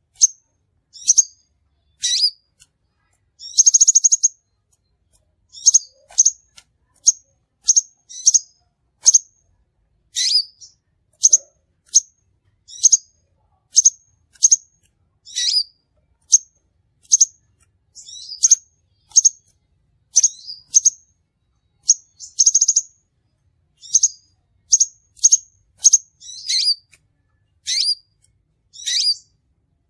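Crimson sunbird calling: short, sharp, high chirps repeated about once or twice a second, with a couple of longer buzzy trills mixed in.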